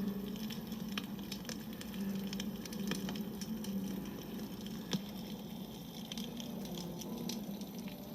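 Wood campfire burning, crackling with scattered sharp pops, the loudest about five seconds in.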